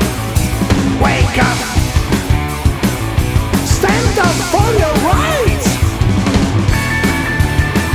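Loud rock music with a steady driving beat, bending guitar lines in the middle and a high held note near the end.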